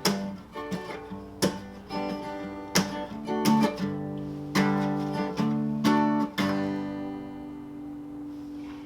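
Acoustic guitar strumming the closing chords of a song, a handful of separate strums over about six seconds, then a final chord left ringing and slowly fading out.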